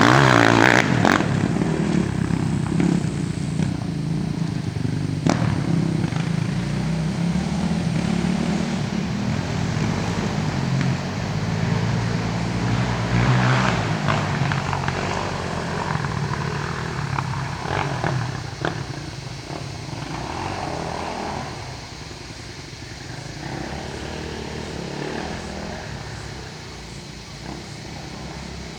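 Dirt bike engine running, loudest at the start and fading gradually, with a few sharp knocks along the way.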